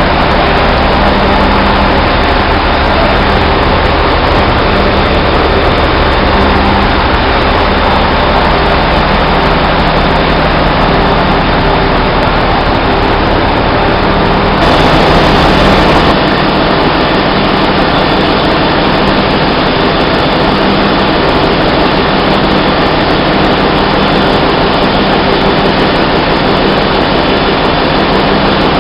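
Loud, steady drone of running heavy machinery with a constant low hum, changing character briefly about halfway through.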